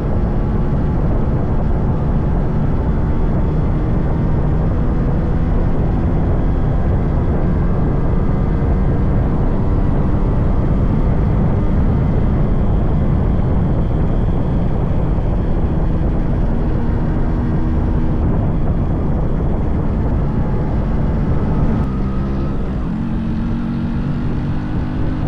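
Yamaha RX100's 98.2cc air-cooled two-stroke single-cylinder engine running on the move, with heavy wind rumble on the microphone. Near the end the engine note shifts and drops a little quieter as the rider eases off.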